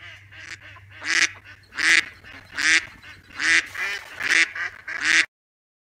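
Mallard ducks quacking: a run of calls that starts soft and, after about a second, turns to loud quacks about one every three-quarters of a second. The calling cuts off suddenly about five seconds in.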